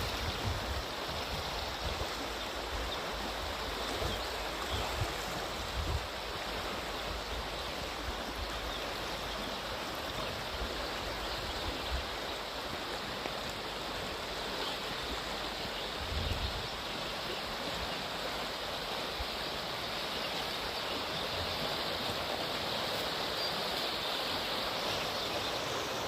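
Mountain river rushing steadily over rocks, an even hiss of flowing water, with a few brief low bumps.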